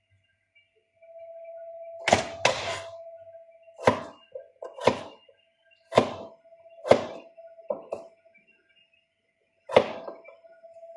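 About ten sharp thunks or knocks at uneven intervals, heard over a steady mid-pitched hum that drops out for a second or two at a time.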